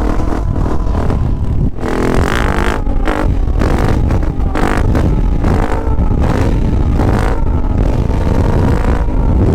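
Yamaha YZ450F's 450 cc single-cylinder four-stroke motocross engine running hard, its pitch rising and falling several times as the throttle is opened and shut.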